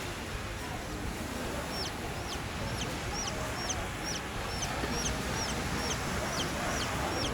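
A bird calling over and over in short, high chirps, about two to three a second, starting about two seconds in, over a steady background hiss.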